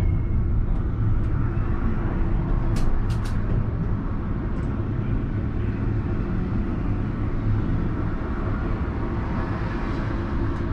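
Alstom Citadis tram running on its track, heard from the driver's cab as a steady low rumble. A quick run of three sharp clicks comes about three seconds in.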